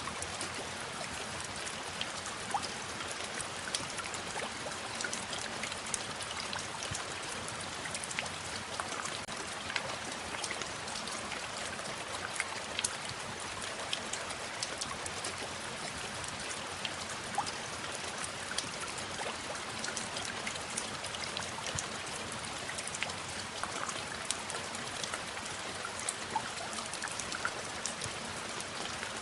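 Steady rain falling, with many separate drops ticking through it.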